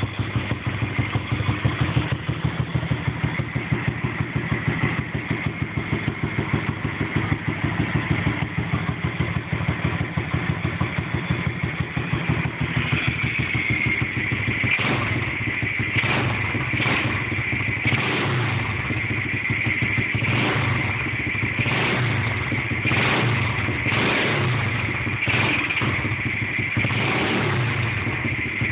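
110cc four-stroke pit bike engine running, at first idling with a choppy, pulsing beat. From about halfway it runs faster, with a string of quick throttle blips.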